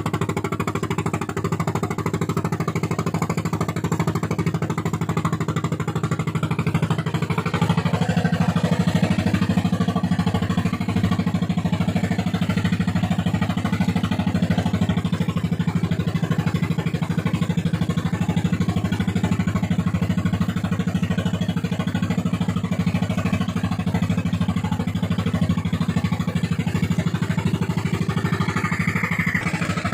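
Fishing boat's inboard engine running hard at high throttle with a fast, even pulsing beat, getting a little louder about eight seconds in.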